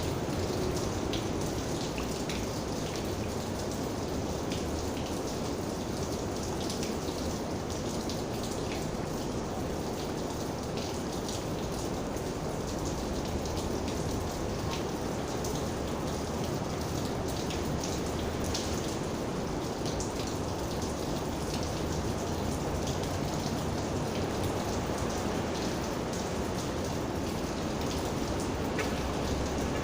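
Steady rain falling: a constant hiss with many individual raindrops striking close by as scattered short ticks.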